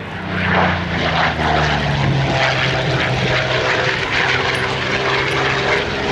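Piston-engined propeller warbird making a pass, its engine running loud, with the note dropping in pitch as it goes by in the first couple of seconds, then holding steady.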